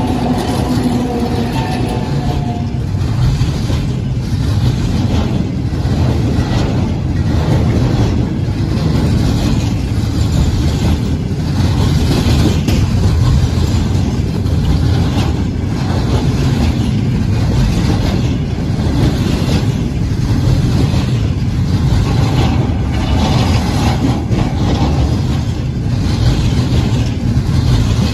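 Freight train of loaded container flatcars rolling past close by: a steady heavy rumble with the repeated clatter of wheels over rail joints. A held tone from the passing 2TE116U diesel locomotive dies away in the first two or three seconds.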